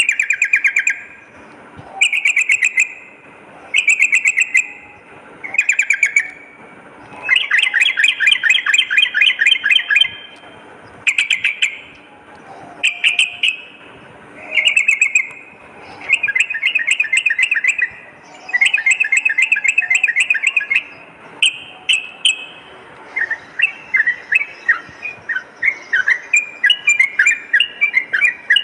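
Yellow-vented bulbul singing: short bursts of rapid, bubbly chattering notes about every two seconds, some drawn out into longer continuous runs. From about three-quarters of the way through, the song breaks into looser, separate quick chirps.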